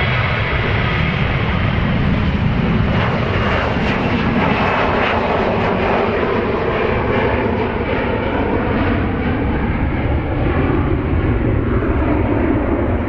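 Airliner's engines running loud and steady.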